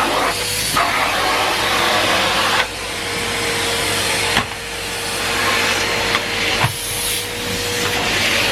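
Numatic Henry Pet cylinder vacuum cleaner running, a steady motor whine under the rush of suction air. The airflow noise drops sharply a couple of times and swells back as the tool moves.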